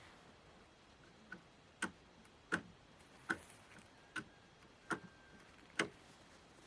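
About seven sharp knocks in a steady rhythm, roughly one every three-quarters of a second, each with a short ring: repeated blows of a hand tool.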